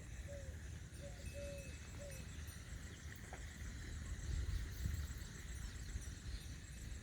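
Birds calling, with a few short, bending low calls in the first two seconds and faint high chirps throughout, over a low rumble that swells about four to five seconds in.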